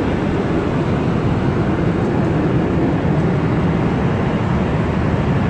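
Steady cabin noise of a Boeing 777 in cruise: the even rush of its engines and the airflow over the fuselage, heard inside the cabin, with most of its weight low.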